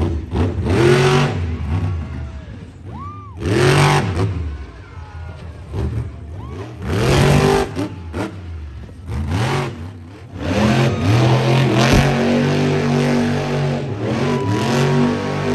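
Monster truck engine revving hard in repeated surges, its pitch climbing and falling, then held at a steady high run from about ten seconds in.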